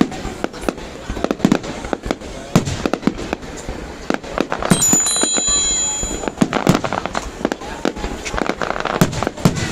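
Aerial fireworks going off in quick succession: many sharp bangs and cracks, closely packed in places. About halfway through, a high steady whistle lasts for over a second.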